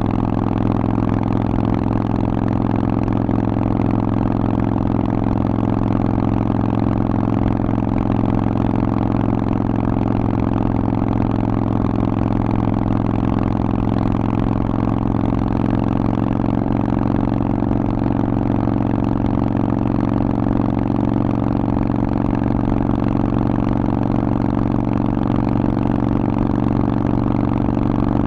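Harley-Davidson Forty-Eight's air-cooled 1200 cc V-twin running through a Vance & Hines aftermarket exhaust at a steady, unchanging engine speed.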